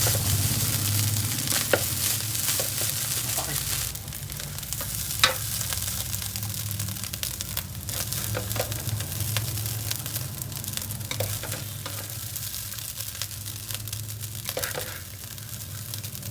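Garlic egg fried rice sizzling in a hot pan as it is stirred, with occasional sharp scrapes and taps of the spatula against the pan. The sizzle drops a little about four seconds in.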